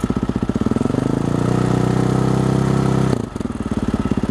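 Husaberg motorcycle's single-cylinder four-stroke engine idling, revved up about a second in and held for around two seconds, then dropping suddenly back to a lumpy idle.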